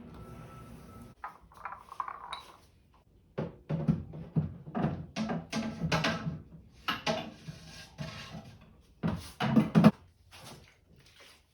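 Irregular knocking and clattering of small hard objects being handled and set down, after a steady hum that stops about a second in; the loudest knocks come near the end.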